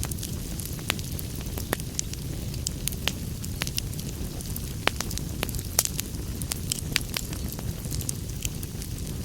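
Wood fire burning in a fireplace, a steady low rumble of flames under frequent, irregular sharp crackles and pops.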